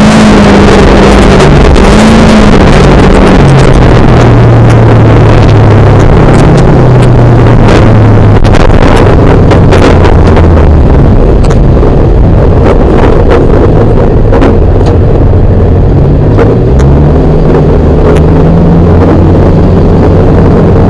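Rokkiralli car engine heard loud from inside the cabin. It drops to low revs a few seconds in, runs steadily there, then picks up again near the end, with scattered sharp clicks and rattles along the way.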